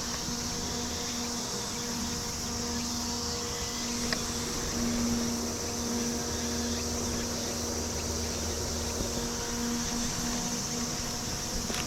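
Steady electric hum of the small battery fans in a fan-cooled work jacket, worn close to the microphone, with a constant high insect chorus behind it and a few faint ticks.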